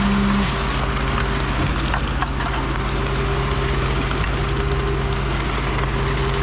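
Diesel engine drone of a concrete pump truck running steadily. From about four seconds in, a laser level receiver gives a high electronic tone, broken by short gaps and then turning into rapid beeps, its signal that the staff is at or near grade.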